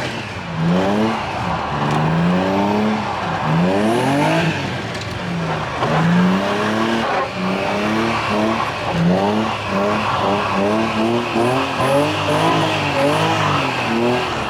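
Car engine revving up and falling back again and again while drifting, its pitch rising and dropping about once a second for most of the stretch.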